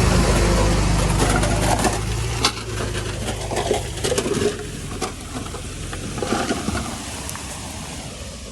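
Heavy-equipment diesel engine running, fading away in the first few seconds, followed by scattered clattering and knocking of rock and soil as the sound dies down.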